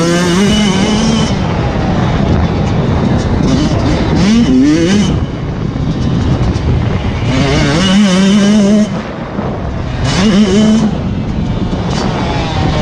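Motocross motorcycle engines running hard, revving up again and again, with the engine note climbing in pitch and then holding steady between the climbs.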